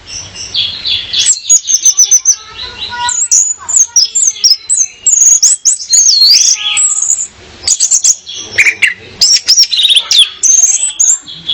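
Orange-headed thrush calling, billed as a female's calls that lure males: a fast, varied run of high sweeping whistles and chirps with a short lull about three-quarters of the way through.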